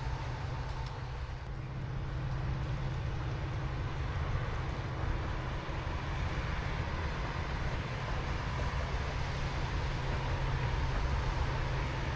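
Metra commuter train running along the tracks: a steady low rumble that grows slightly louder near the end.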